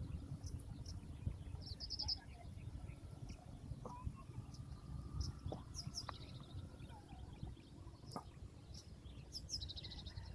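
Small birds chirping in short, quick trills, heard three times, over a constant low rumble, with a few faint clicks or taps.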